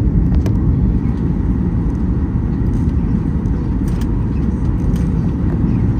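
Steady low rumble of an aircraft cabin in flight, with a few faint ticks.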